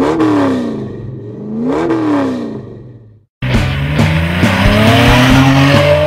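Camaro V6 revved twice through a Flowmaster American Thunder axle-back exhaust, the pitch climbing and falling back each time and fading out. It then cuts off abruptly, and loud rock music starts about three seconds in.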